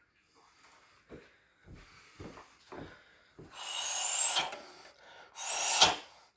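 Shin kicks landing on a rubber car tyre on a heavy boxing stand: a run of dull thumps about every half second, then two loud rasping scrapes with a squeak in them, each just under a second.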